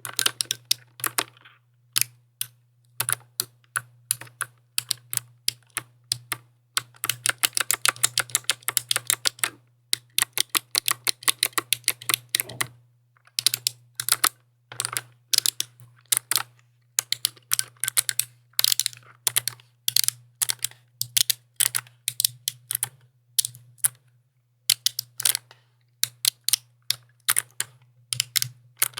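Typing on a mechanical keyboard: irregular runs of sharp key clicks with short pauses, including a fast burst of rapid typing about a third of the way in.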